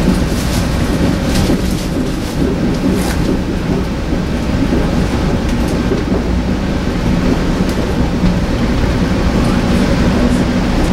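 Metro-North M2 electric railcar running at speed, heard from aboard: a steady low rumble of wheels on rail with a faint steady hum. A few sharp clicks over rail joints come in the first three seconds.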